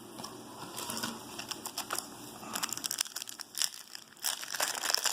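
Foil wrapper of a Topps Chrome trading-card pack crinkling and tearing as it is handled and opened. A scattered crackle comes in about a second in and grows thicker and louder toward the end.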